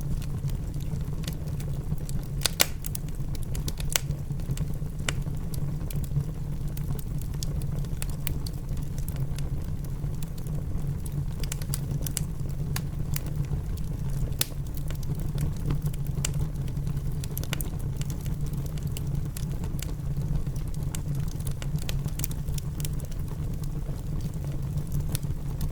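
Wood fire in a fireplace crackling, with sharp pops scattered irregularly over a steady low rumble of rain.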